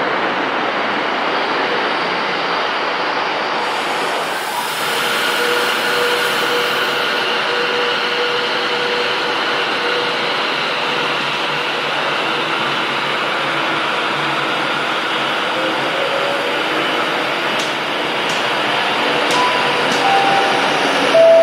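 A train running through the station, a loud steady rumble of wheels and traction, with a faint steady whine partway through. A short run of falling tones sounds near the end.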